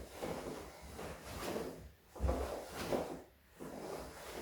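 Cloth rustling and swishing of a karate uniform as blocks and punches are thrown, with a low thump about two seconds in.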